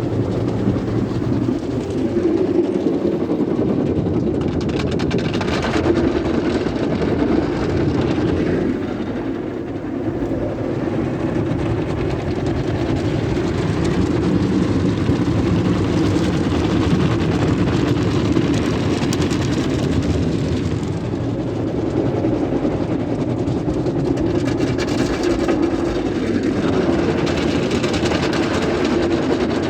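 Sonny's tunnel car wash equipment running: a loud, continuous mix of machinery hum and rushing spray-like noise that swells and eases a few times without stopping.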